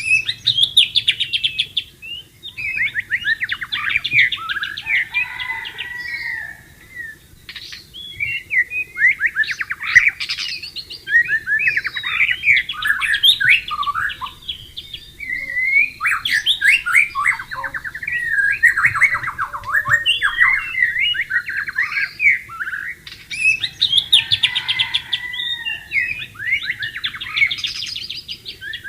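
White-rumped shama singing a long, varied song of quick rising and falling phrases, nearly without a break.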